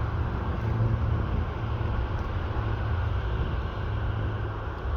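Steady low rumble with a faint hiss: airport background noise of aircraft engines running.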